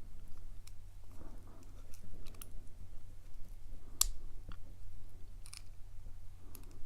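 Small scattered metallic clicks and scrapes of a lock pick and tension wrench working the pins of a steel padlock, with one sharper click about four seconds in. A steady low electrical hum underneath.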